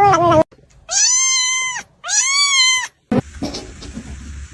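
A cat meowing: two high, drawn-out meows about a second apart, each rising then falling in pitch.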